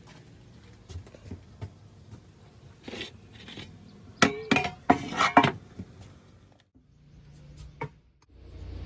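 Dishes and glassware clinking and knocking as they are handled, with a run of louder ringing clinks about four to five and a half seconds in.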